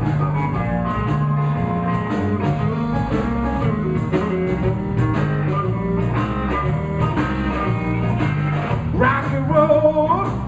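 Live blues band playing: electric guitar over a repeating bass line and drum kit, in a steady rocking groove.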